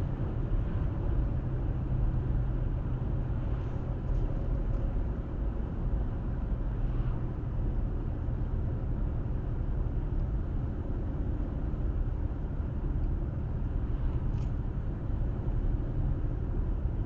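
Car driving at a steady speed: an even, low road and engine rumble with no change in pace.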